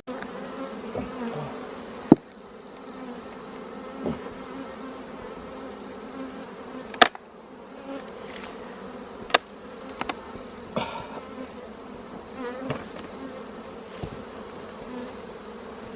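Honeybee colony buzzing steadily around an opened hive, with a few sharp knocks scattered through it, the loudest about two seconds in.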